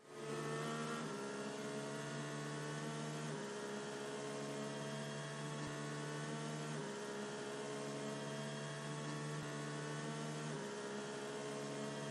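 Quiet background music: held synth notes that change chord every few seconds.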